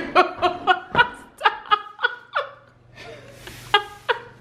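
A person laughing in a quick run of short bursts, each falling in pitch, that trails off about halfway through; a brief soft noise and a couple of last chuckles follow near the end.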